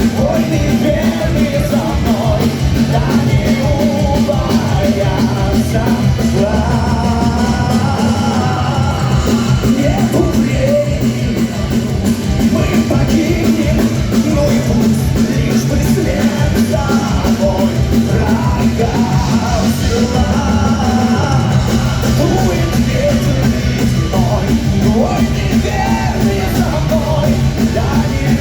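Heavy metal band playing live, with drums and a loud steady instrumental bed under a singer's voice.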